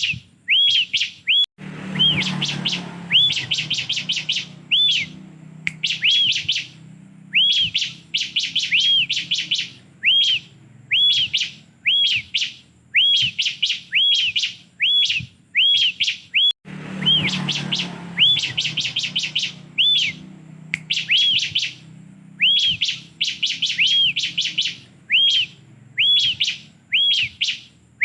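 Bar-winged prinia (ciblek) singing: rapid runs of sharp, arched chirps in bursts with short pauses. A low hum swells twice underneath, about 1.6 s in and about 16.7 s in.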